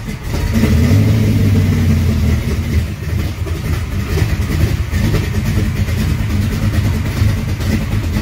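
A 1955 Chevy's engine running at low speed while the car is backed and turned, swelling for a moment about a second in.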